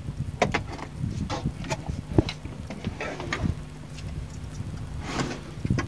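Irregular clicks and knocks from a Roland EX-20 keyboard being handled as its casing is opened up, over a steady low hum.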